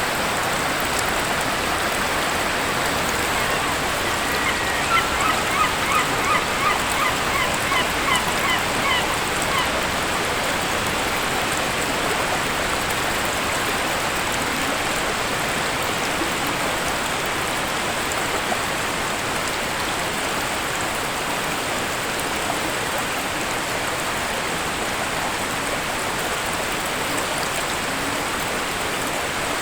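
Waterfall rushing steadily. A few seconds in, a bird gives a quick series of about ten short, repeated calls, roughly two a second, fading out within about five seconds.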